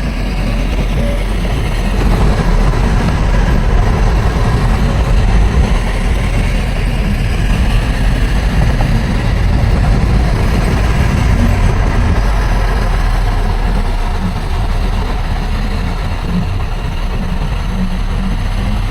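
Heavy diesel engine of earthmoving equipment running steadily, a little louder for several seconds after about two seconds in, then easing slightly.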